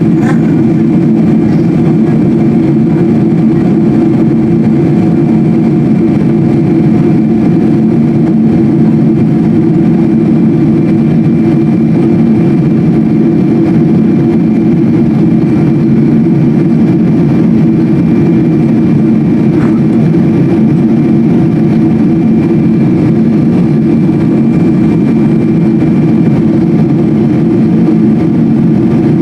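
Steady cabin drone of a Boeing 777-200 airliner, heard from inside the passenger cabin: the jet engines and rushing air make a loud, even hum, with a low tone and fainter higher whining tones held steady throughout.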